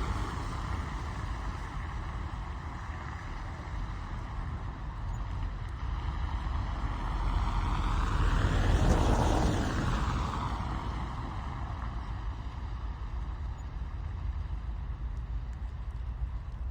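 Steady wet-road hiss with a vehicle passing by, swelling to its loudest about nine seconds in and then fading away.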